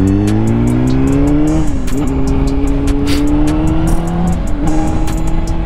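Honda CBR600RR's inline-four engine pulling under acceleration, its pitch climbing steadily, dropping at a gear change about one and a half seconds in, then climbing again and holding steady near the end.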